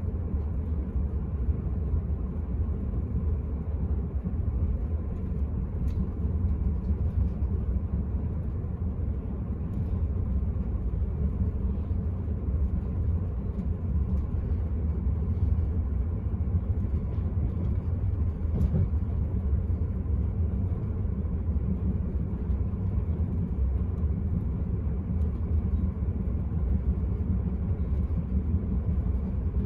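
Steady low rumble of an Enterprise passenger train running along the line, heard from inside the carriage, with a couple of faint clicks.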